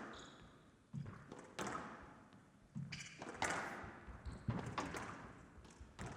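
Squash rally: the ball is struck by rackets and hits the court walls, a series of sharp thuds about once a second, echoing in a large hall.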